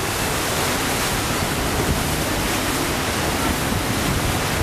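Steady rushing noise of wind and water aboard a moving river tour boat.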